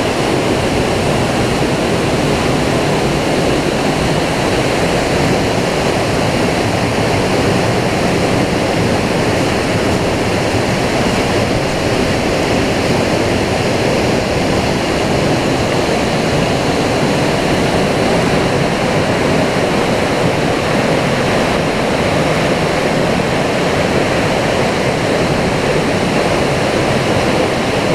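Waterfall pouring steadily, a loud even rush of falling water with no pauses or changes.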